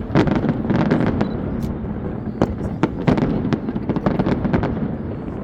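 Aerial fireworks exploding in quick succession: a dense run of sharp bangs and crackles, thickest in the first second or so, over a continuous rumble of further bursts.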